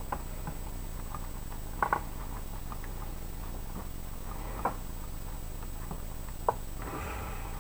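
A few short, sharp clicks over a steady low background hiss: one right at the start, a quick double about two seconds in, and two single clicks later on.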